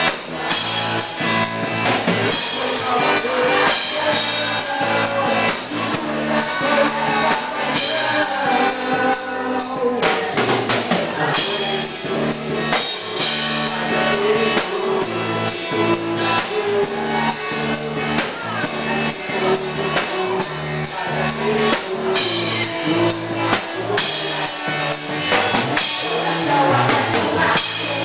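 A band playing music, with a drum kit keeping a steady beat under sustained melody notes.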